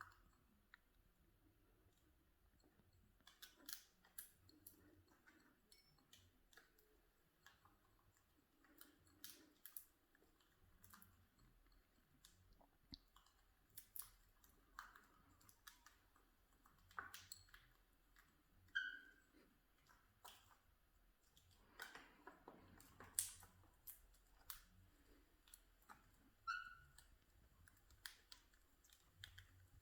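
Cockatiels cracking and husking seeds with their beaks: irregular sharp clicks and crunches. Two short chirps come in, the first about two-thirds of the way through and the second near the end.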